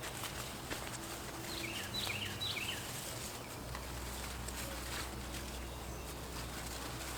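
Outdoor garden ambience with a steady background hiss, and a small bird giving a quick series of four or five short chirps about two seconds in. A few faint clicks are scattered through it.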